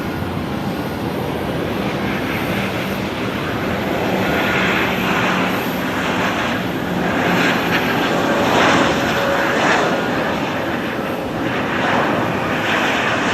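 The Rolls-Royce Trent 700 jet engines of a landing Airbus A330-300 airliner, a steady rushing roar with a faint steady whine, swelling a little in the middle.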